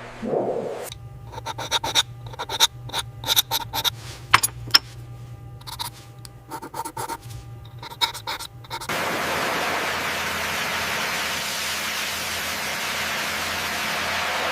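A run of irregular sharp clicks and scrapes over a low steady hum, then, about nine seconds in, a steady hiss starts abruptly and holds.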